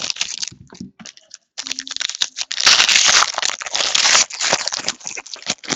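Trading-card pack wrappers being torn open and crinkled, with quick small clicks and rustles. The loudest crinkling stretch comes about halfway through.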